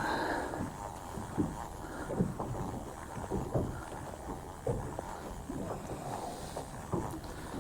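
Small boat at sea: water slaps irregularly against the hull about once a second over a low steady hum.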